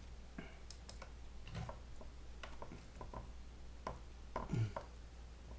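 Scattered small clicks and taps from plastic being handled: zip ties worked through holes in a PVC pipe cover and fastened. One slightly heavier knock comes about four and a half seconds in.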